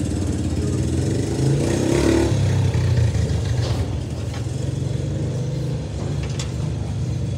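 Drift cars' engines running at the start line, with a brief rising rev about two seconds in.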